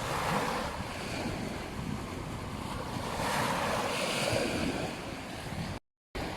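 Ocean surf washing onto a beach, swelling twice, with wind rumbling on the microphone. The sound cuts out completely for a moment near the end.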